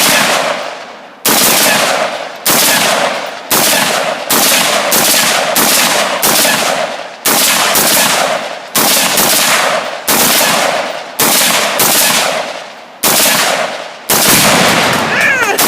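Gunshots fired one after another, about one a second and more than a dozen in all, each sharp crack trailing off over most of a second.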